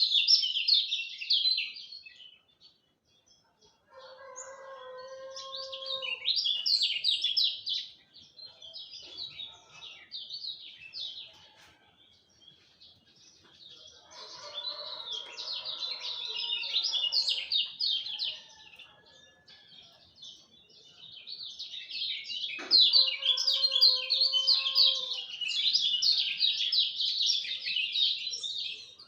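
Kecial kuning white-eye singing a fast, chattering twitter in repeated bouts, loudest at the start and in a long burst through the last few seconds. A fainter steady lower tone sounds beneath it in a few places, and there is a single sharp click about two-thirds of the way in.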